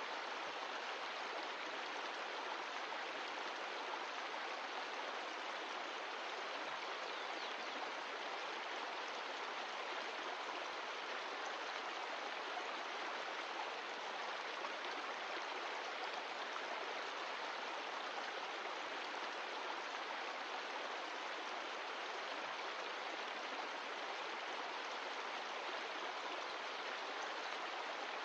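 Mountain stream of glacial meltwater rushing steadily over rocks, an even flowing rush of water with no change in level.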